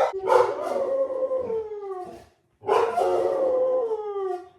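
Bird-hunting dogs howling in two long drawn-out howls, each sliding down in pitch, with a short break between. They are eager to get out and hunt.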